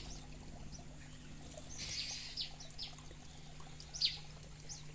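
Aviary birds chirping: scattered short, high chirps that sweep downward, with a brief hiss of noise about two seconds in.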